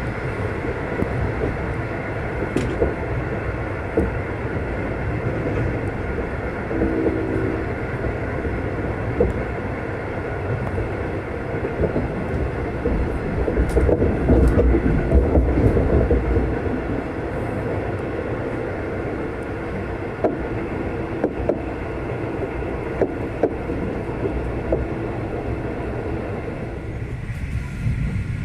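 V/Line loco-hauled passenger train running on the line: a steady rumble of wheels on rail with scattered clicks. It swells louder for a few seconds around the middle, and a short pitched tone sounds about seven seconds in.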